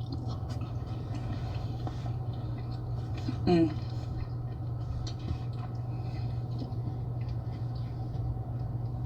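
Soft eating noises, small clicks and smacks of seafood being picked at and chewed, over a steady low hum, with one short voice sound about three and a half seconds in.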